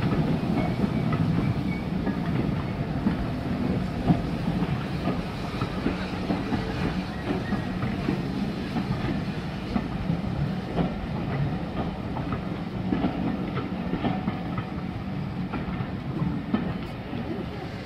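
A train running along the line, its wheels clicking over the rail joints, growing gradually fainter toward the end.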